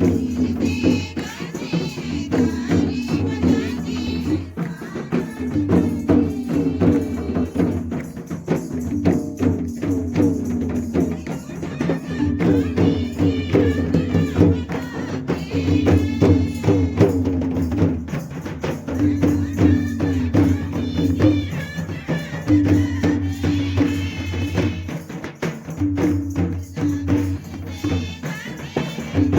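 Worship song with voices singing over a tambourine and drum beat and a held low accompaniment.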